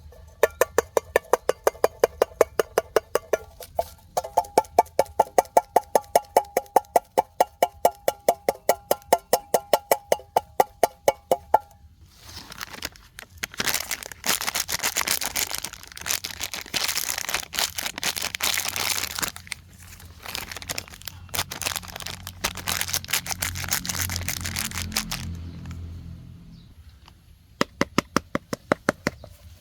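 A fast, even series of sharp clicks, about four a second, for roughly the first twelve seconds. Then a long stretch of rustling, crinkling noise, and a short run of clicks again near the end.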